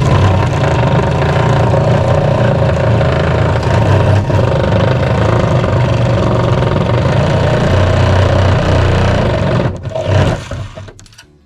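A handheld power tool running steadily under load for about ten seconds, cutting off shortly before the end, as it trims down a door that still binds in its frame.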